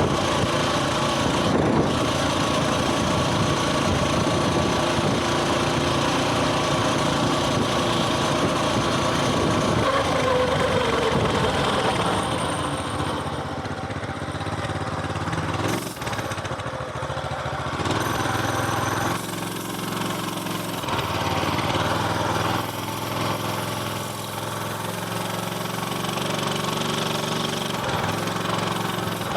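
Coleman mini bike's small single-cylinder engine running under way. Its pitch falls about ten seconds in as it slows, and it runs lower and steadier, near idle, through the second half.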